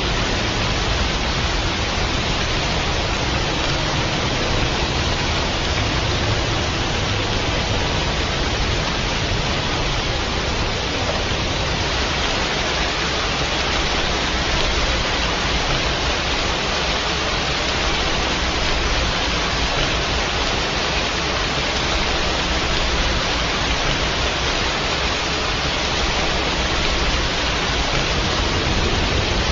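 Steady, unbroken rain noise, an even hiss with no separate drops or thunder.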